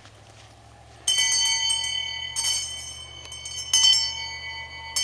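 A bell is struck at an even pace, about once every second and a quarter. The first strike comes about a second in, and each stroke rings on with a clear, bright tone that fades before the next.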